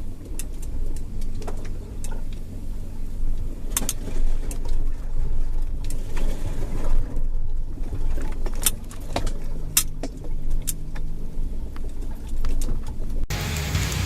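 A vehicle pulling a rubber mat over the ground: a steady low rumble with scattered sharp clicks and knocks. It cuts off abruptly to a louder, different sound near the end.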